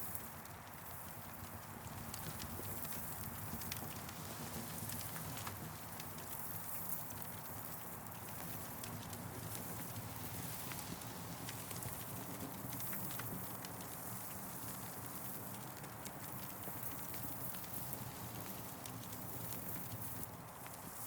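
Campfire burning, crackling with scattered small pops and snaps over a steady hiss.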